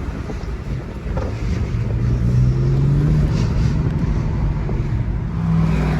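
BMW 335xi's N54 twin-turbo inline-six pulling under acceleration, with the Injen cold air intake's induction sound and wind noise over it. The engine note swells and rises slightly about two seconds in, eases off, then picks up again near the end.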